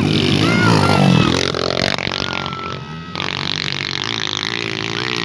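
Enduro dirt-bike engines running and revving, their pitch rising and falling unevenly.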